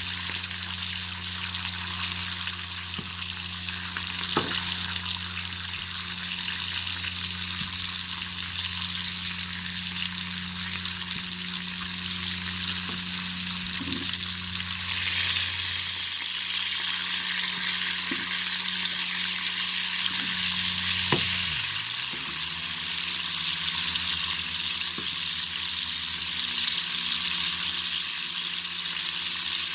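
Bacon sizzling in a pan over a fire: a steady frying hiss with a few scattered pops.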